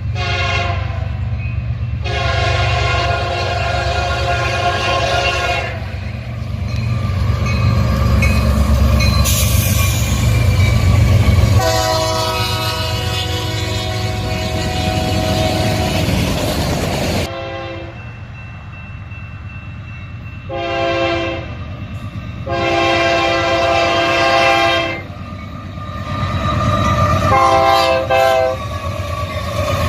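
Freight train's lead diesel locomotive, a GE C44AC, sounding its air horn in a series of long and short blasts, the longest about five seconds near the middle. Under the horn is the low, steady rumble of the diesel engines as the train passes.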